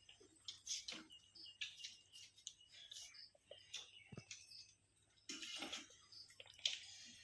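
Faint eating noises: scattered wet smacks and clicks of chewing, with two denser bursts of slurping and crackling near the end.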